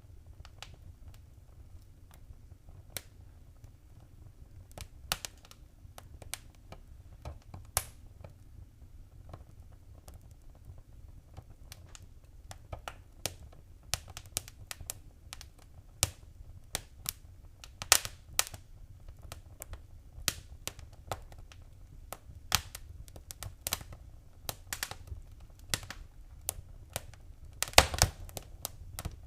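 Fireplace fire crackling: irregular sharp pops and snaps over a low steady rumble. The pops come thicker in the second half, with the loudest cluster near the end.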